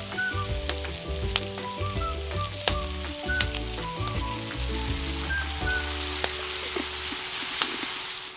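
Beef and rice frying in a hot pan, sizzling steadily, with sharp clicks of a utensil against the pan as it is stirred. Background music plays underneath, and everything stops abruptly at the end.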